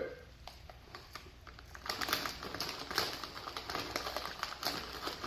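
Potato chips being crunched while chewed close to the microphone: a dense run of irregular crisp crackles that picks up about two seconds in.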